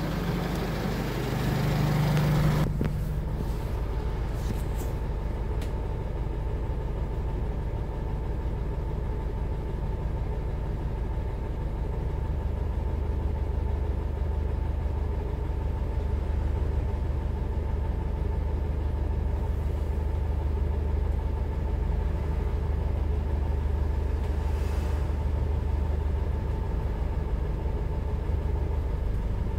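Cummins ISF3.8 four-cylinder turbodiesel in a Daewoo Lestar bus running steadily, a low drone with a thin steady whine above it. A louder hiss stops abruptly about three seconds in, and the low hum of the engine grows stronger about twelve seconds in.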